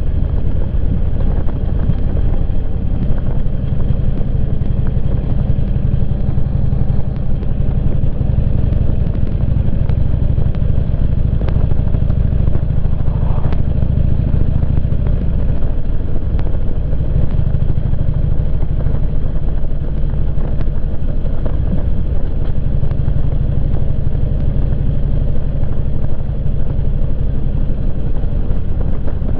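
Motorcycle engine running steadily while riding on the road, with wind and road noise; the engine note shifts about halfway through.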